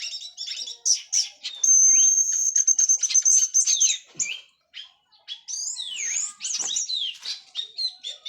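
Orange-headed thrush singing a fast, varied song of rapid chirps and slurred whistles. A long, high steady note is held for about two seconds, and the song breaks off briefly halfway through.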